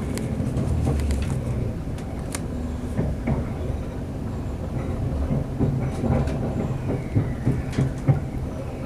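Class 185 diesel multiple unit heard from inside the carriage: the underfloor diesel engine gives a steady low rumble, with scattered clicks and knocks through it.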